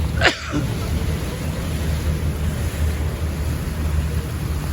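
Steady low rumble of a tour boat underway, with wind on the microphone. A single brief sharp knock comes about a third of a second in.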